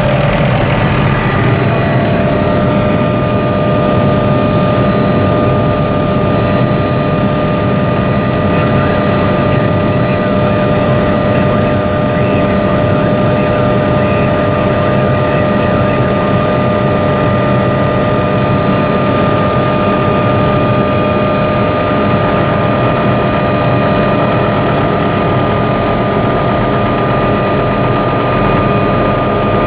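Helicopter running steadily, heard from inside the cabin: a constant engine whine over a dense low rotor and engine rumble.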